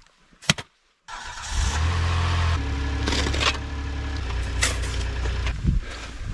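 A click about half a second in, then an old Kia's engine starting about a second in after sitting 17 hours in a snowstorm: a cold start that catches at a fast idle and settles a little lower about two and a half seconds in, running steadily after.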